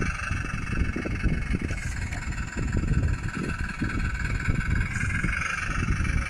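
Yikong YK41011 RC rock crawler running with an add-on engine sound unit: the speaker plays a simulated engine note with uneven low rumble, over a steady high whine.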